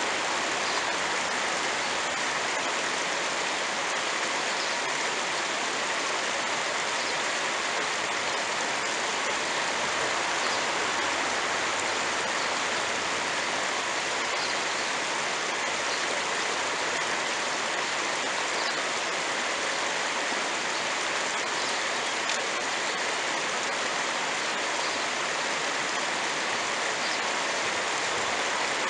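Steady rush of flowing creek water, even and unbroken, with a few faint ticks over it.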